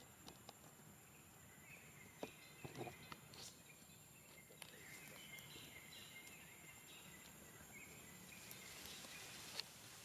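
Faint outdoor ambience with soft, scattered chirping and a few light clicks.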